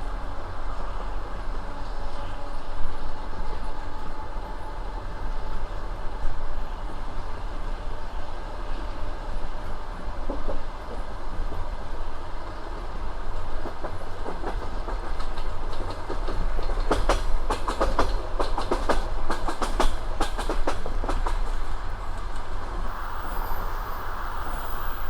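Passenger train running along the line: a steady low rumble of the railway carriage, with a run of rhythmic clickety-clack from the wheels over rail joints in the second half.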